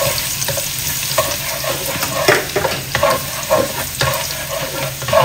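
Minced garlic sizzling in hot oil in a non-stick wok while a spatula stirs it, its irregular scrapes and clicks against the pan over a steady frying sizzle.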